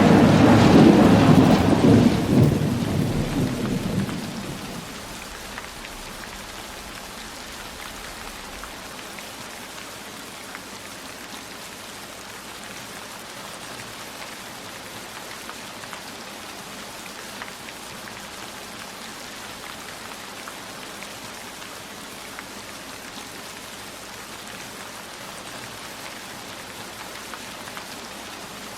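A roll of thunder rumbles loudly at the start and dies away over the first four seconds or so, leaving heavy, steady rainfall.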